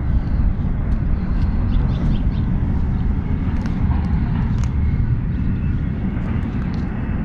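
Wind buffeting the microphone outdoors: a steady, fluttering low rumble, with a few faint light ticks over it.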